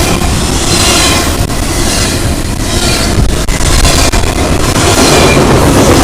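Freight train cars rolling past close by, a loud steady roar of wheels on rail with sharp clacks as the wheels cross rail joints.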